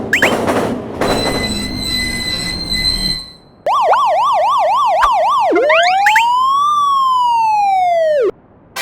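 Police siren, starting with about two seconds of fast up-and-down yelp, then one slow wail that rises and falls and cuts off suddenly. For about the first three seconds there is a loud, noisy sound effect before the siren begins.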